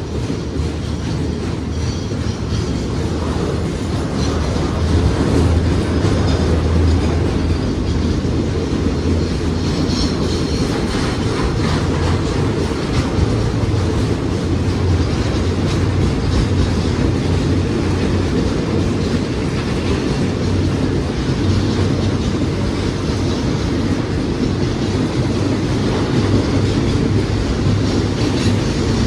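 Train running on the rails: a steady low rumble with wheel clatter on the track.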